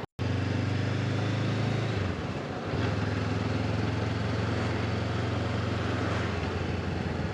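Honda motorcycle engine running with a steady note. It falls away about two seconds in and picks up again under a second later, with a hiss of wind or road noise beneath it.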